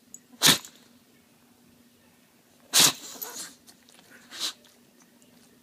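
Bulldog sneezing: two sharp sneezes about two seconds apart, the second trailing off noisily, then a softer sneeze about a second and a half later.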